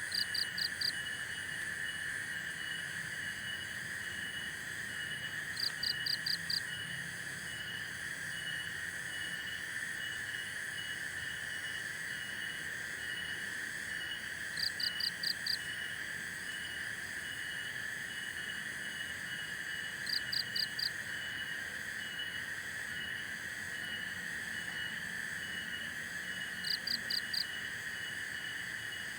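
Steady chorus of crickets and other insects with a fast, even chirping. Five times, several seconds apart, an animal gives a call of four quick high notes.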